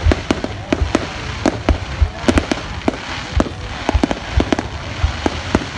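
Fireworks display going off: a rapid, irregular run of sharp bangs and crackles, several a second.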